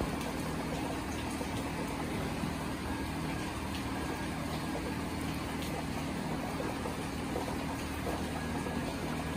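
Steady rain falling, with faint scattered drips and a steady low hum underneath.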